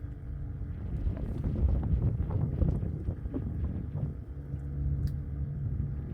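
Boat motor running, with wind rumbling on the microphone; a steady low hum sets in about four seconds in.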